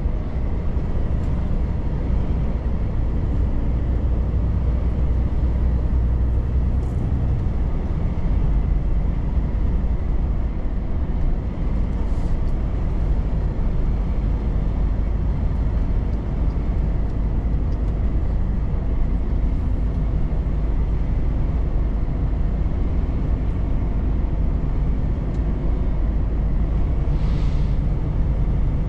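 Volvo FH truck's diesel engine running steadily under way, a low drone with road noise, its note shifting about eight seconds in.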